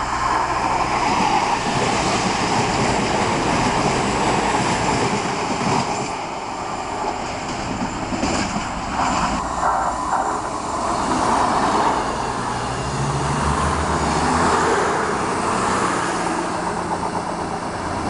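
CrossCountry Voyager diesel multiple unit running past close by: a loud, steady rush of wheels on rail mixed with the hum of its underfloor diesel engines.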